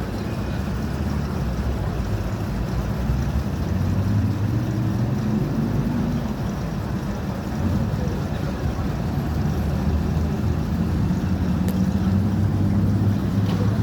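An engine running under a steady wash of noise, its pitch rising and falling gently a few times as it speeds up and eases off.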